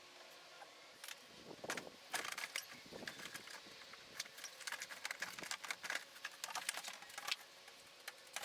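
Irregular clinks, taps and knocks of hand work on metal, starting about a second in.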